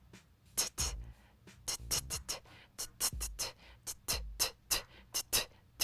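Sparse hip-hop drum beat with no melody: a low kick about once a second and quick, sharp snare and hi-hat hits between.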